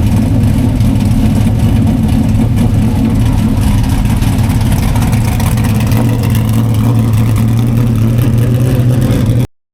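Big-block V8 dirt modified race engine running loud and steady, cutting off abruptly near the end.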